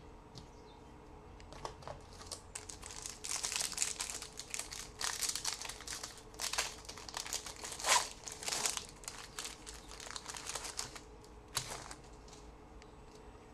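Foil wrapper of a trading card pack being torn open and crinkled in the hands, in a run of crackling rustles from a couple of seconds in until near the end.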